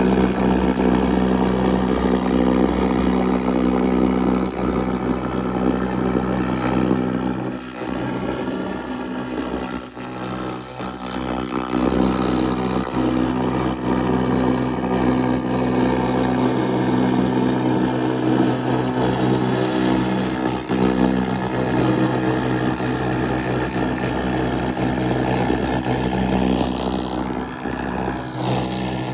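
2000 W handheld laser rust remover running, a steady mechanical hum with a hiss over it and a few brief dips.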